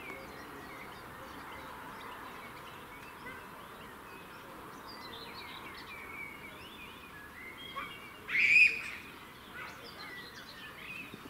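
Birds chirping and singing over a steady background hiss, with one louder bird call about eight and a half seconds in.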